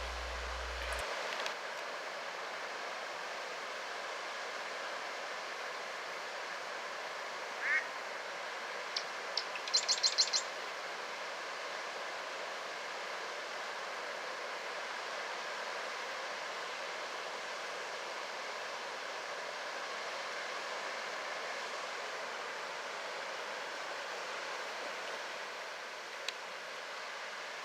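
Outdoor wetland ambience with a steady hiss. Birds call in it: one short call about eight seconds in, then a quick run of high chirps around ten seconds.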